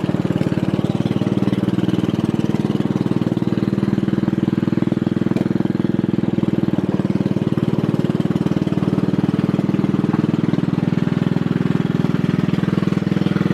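Yard Machines riding lawn mower engine running steadily, freshly cold-started, as the mower backs out in reverse.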